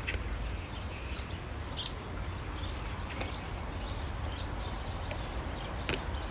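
Outdoor ambience: a steady low rumble with faint, scattered bird chirps and a single sharp click near the end.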